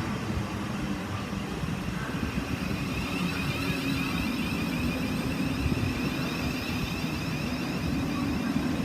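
Steady rumble and hum of electric trains standing at a platform. From about three seconds in, a high wavering whine joins it.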